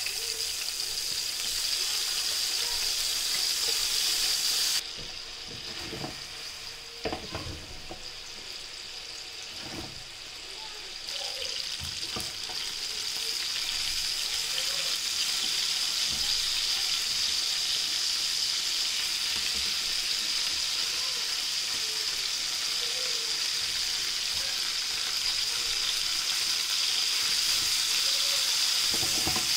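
Chicken pieces sizzling in hot oil in a non-stick frying pan, a steady high hiss. It drops suddenly about five seconds in and builds back up from about eleven seconds, with a few light knocks as pieces are laid in and turned.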